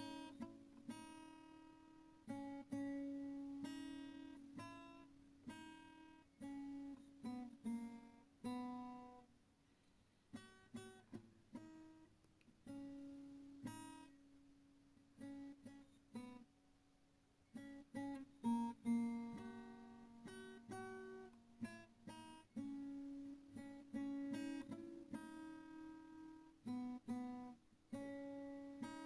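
Background music: acoustic guitar playing plucked notes and strums, thinning out to a few sparse notes for several seconds midway.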